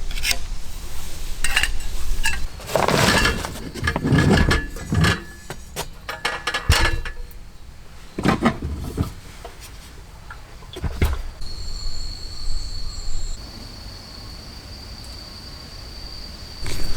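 Knocks and clinks of camp cookware and gear being handled, in irregular clusters. About two-thirds of the way in, a steady high-pitched chirring of autumn insects begins and carries on.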